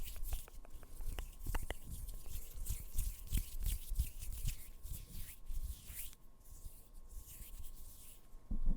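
Close-miked ASMR trigger sounds: an irregular run of soft clicks and taps with low thuds on the microphone, growing sparser in the last few seconds.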